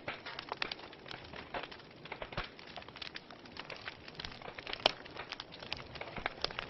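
Wood fire burning in a fireplace, crackling with irregular small pops over a soft hiss, one sharper pop about five seconds in.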